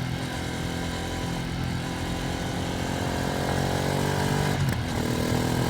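Ducati Streetfighter V2S's 890 cc V-twin engine running on the road, heard from the rider's position. The bike is being run in at low throttle: the note holds steady, breaks briefly about three-quarters of the way through, then climbs a little.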